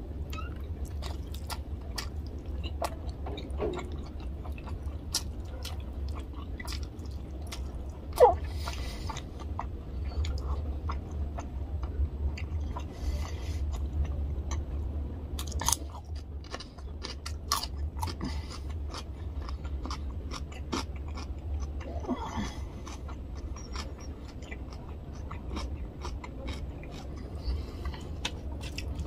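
Close-miked chewing of mouthfuls of rice and fish curry, a dense run of small wet mouth clicks and smacks, over a low steady hum. One sharp, loud smack about eight seconds in.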